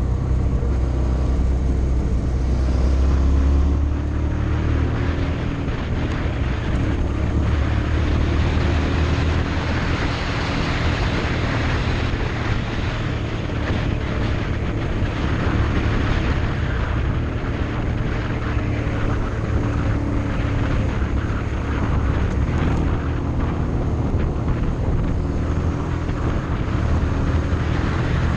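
Motorcycle engine running steadily while riding, with heavy wind noise over it.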